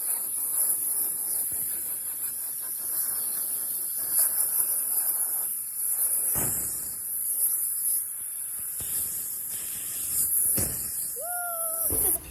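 A steady, loud high-pitched hiss, like escaping steam or spray, that stops suddenly at the end; a short gliding tone sounds briefly near the end.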